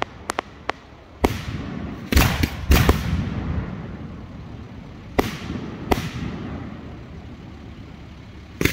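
3- and 4-inch aerial fireworks shells going off: a few sharp crackles at the start, then six loud separate bangs at uneven intervals, each trailing off. The last bang comes right at the end.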